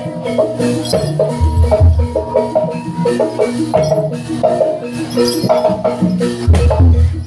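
Jaranan ensemble music: tuned percussion plays a quick, busy melody over groups of deep drum beats, with rattling percussion on top.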